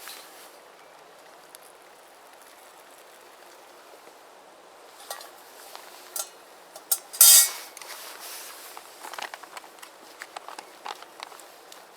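Handling of a camp cookpot and a foil freeze-dried meal pouch as boiling water goes in: a quiet start, then scattered clinks and knocks, one short loud rush a little after seven seconds, and light crinkling clicks of the pouch near the end.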